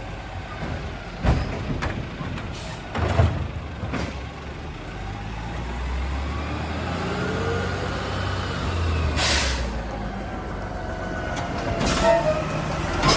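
Garbage truck engine running with rising revs, a short hiss of air brakes about nine seconds in and another near the end, and a few sharp knocks.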